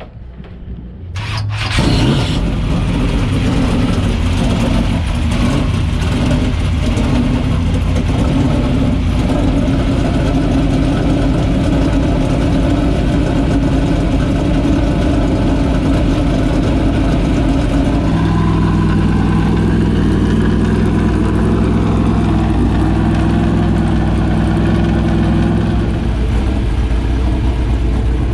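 Dirt super late model race car's V8 engine firing up about a second and a half in, then running loudly at idle. About two-thirds of the way through, it settles into an even, steady note.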